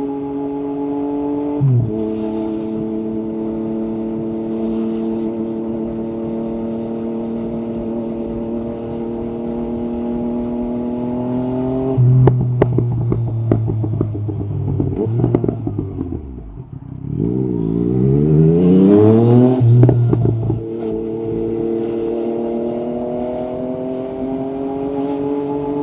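Yamaha MT-09 SP's three-cylinder engine through an Akrapovic carbon exhaust, cruising steadily with a quick gear change about two seconds in. About halfway through the throttle closes and the revs fall with crackles and pops on the overrun, then the engine accelerates hard with rising revs, the loudest part, before shifting up and settling back to a steady cruise.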